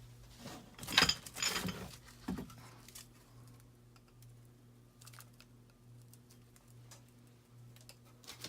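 Handling noise from packaging and fan parts. A burst of rustling and clattering comes about a second in, then a single knock, then scattered light clicks, over a faint steady low hum.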